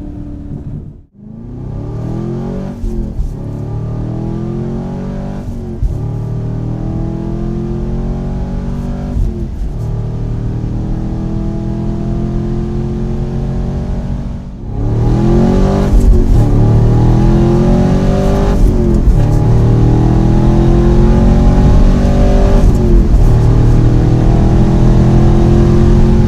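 Chevrolet Camaro SS 6.2-litre V8 through a Borla axle-back exhaust, accelerating hard through the gears. The note climbs and falls back at each upshift, over two separate runs, the second one louder.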